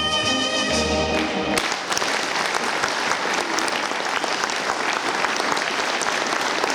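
The song's held final note and its backing music stop about one and a half seconds in, and the audience then applauds steadily.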